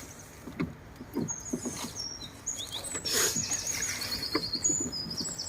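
A small bird singing: phrases of quick, high, falling chirps repeated in runs, starting about a second and a half in. A brief rush of noise comes about three seconds in.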